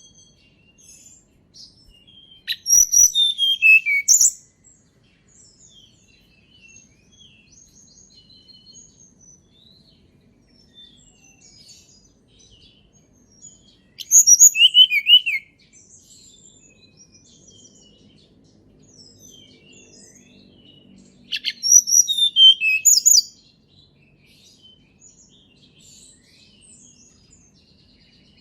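Tledekan gunung song recorded in the wild: three loud phrases of sharp whistled notes, each falling in pitch, spaced several seconds apart. Many faint high chirps fill the gaps between them.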